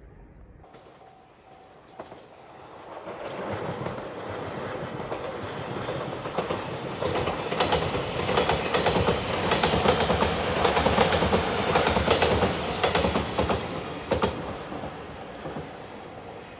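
Five-car electric limited express train passing a level crossing: the noise builds over a few seconds, is loudest for about six seconds with rapid clickety-clack of the wheels over rail joints, then fades. A faint steady tone in the first two seconds is the crossing bell.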